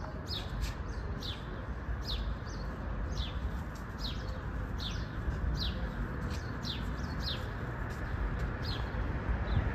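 A songbird calling over and over: a short, high chirp that falls in pitch, repeated steadily a little more often than once a second. A steady low rumble runs underneath.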